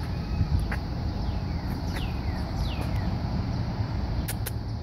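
Wild birds calling: a few quick falling whistled notes about two seconds in, over a steady low rumble, with two sharp clicks near the end.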